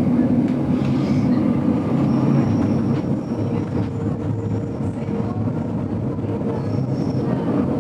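GoldenPass Belle Époque train running along the line, heard from inside the carriage: a steady low rumble of wheels on rails. A faint high whine comes and goes twice.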